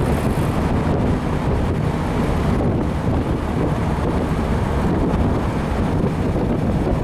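1955 Ford Thunderbird under way, a steady mix of its rebuilt 292 V8, road noise and wind buffeting the microphone.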